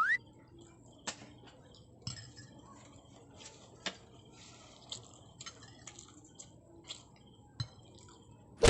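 Eating sounds: scattered light clicks and clinks of a spoon against a bowl as bibimbap is eaten. A rising whistle-like tone ends just at the start, and a loud sudden burst comes right at the end.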